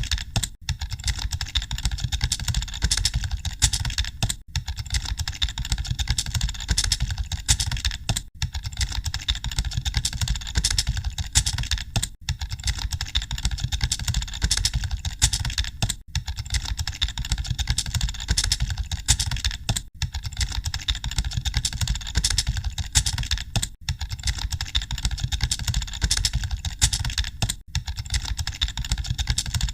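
Computer keyboard typing: a dense, continuous clatter of keystrokes with brief dips about every four seconds, over a low rumble.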